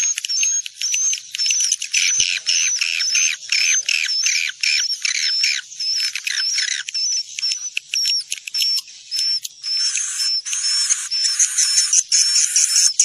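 Edible-nest swiftlets twittering in a dense, unbroken stream of rapid high chirps, with a short whistled note repeating several times a second: the swiftlet-house call recording played to lure swiftlets in to roost.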